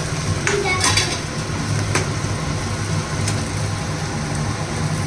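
Chopped green chillies frying in oil in a non-stick pan, sizzling steadily, with a steel spoon knocking and scraping against the pan a few times in the first few seconds. A steady low hum runs underneath.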